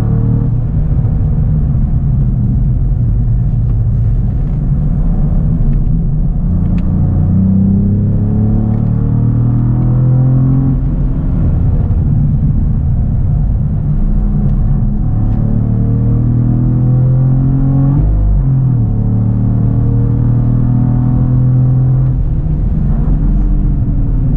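Cadillac CT4-V Blackwing's twin-turbo V6 pulling hard in third gear, heard from inside the cabin with road and tyre noise. Its pitch rises and falls with the throttle, with a brief dip about 18 seconds in.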